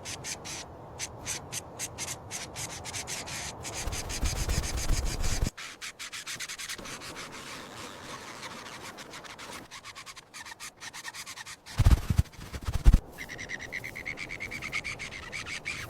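Rapid, scratchy rubbing and scraping, dense for the first few seconds and then quieter, with two heavy thumps about twelve seconds in. Near the end a faint call repeats.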